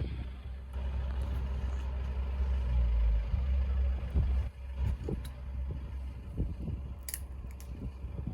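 Road vehicles running near the crossing: a steady low rumble that breaks up about four and a half seconds in, with a short high hiss about seven seconds in.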